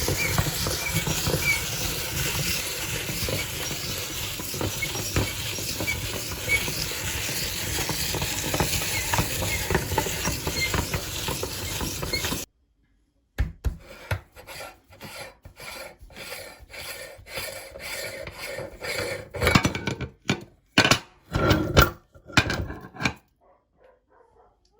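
Ruffles potato chips crunching and crackling as a meat grinder works them through, a dense continuous crackle. It stops abruptly about halfway, then comes back as separate irregular crunches and rustles.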